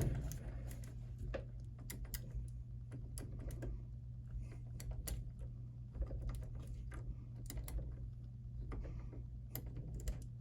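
Irregular small metallic clicks and taps from a key blank being worked in a Schlage SC1 mortise lock cylinder for impressioning, with one sharper click at the start. A steady low hum sits underneath.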